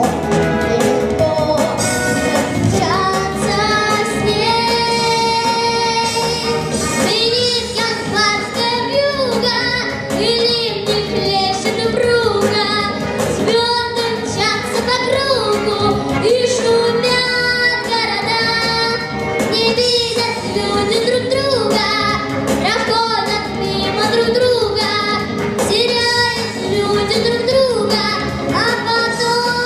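A girl singing a pop song over a backing track.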